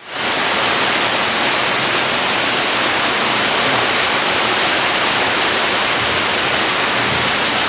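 Rain falling steadily: a dense, even hiss that never lets up.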